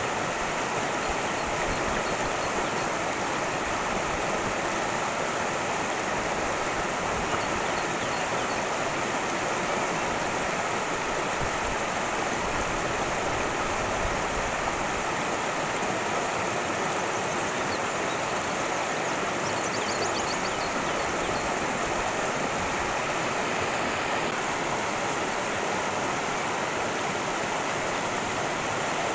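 Cascading stream water rushing steadily over rocks, an even continuous splashing.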